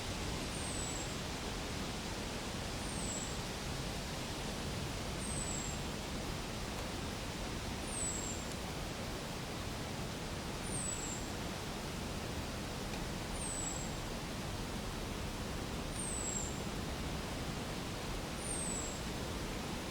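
Steady outdoor background hiss. A short, very high, thin chirp that slides downward repeats about every two and a half seconds.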